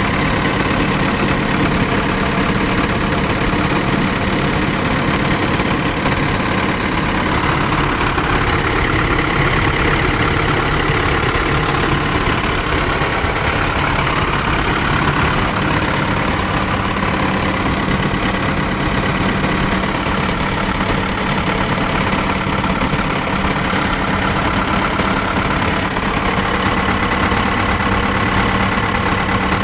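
1998 Samsung LC130 excavator's diesel engine idling steadily at an even pitch.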